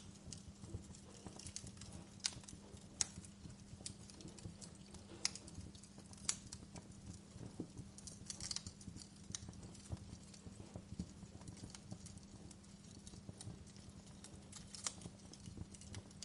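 Wood fire in a fireplace crackling, with irregular sharp pops and snaps, a few louder ones, over a low rumble and a steady low hum.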